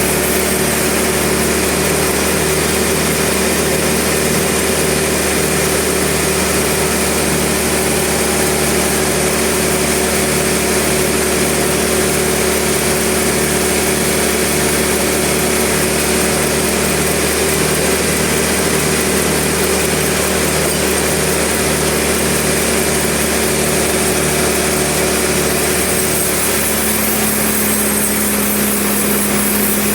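Sawmill engine and saw running steadily, a constant mechanical drone with a fast, even pulsing low in the sound. Near the end the tone shifts slightly, as the load on the saw changes.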